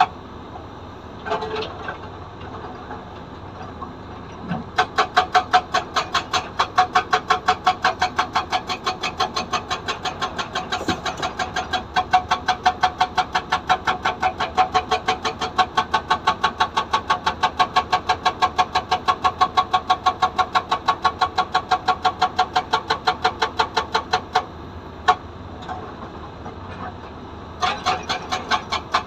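Hydraulic rock breaker (SAGA 288H) on a Komatsu PC200 excavator hammering stone at about three blows a second, over the excavator's running engine. The hammering starts about five seconds in, stops briefly near the end with a single knock, then starts again.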